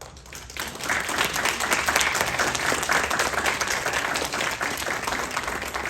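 Audience applauding at the end of a performance, the clapping building up over the first second and thinning out near the end.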